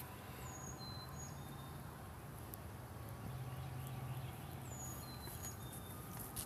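A songbird singing a short phrase of high, thin whistled notes, twice, about four seconds apart, over a steady low background hum.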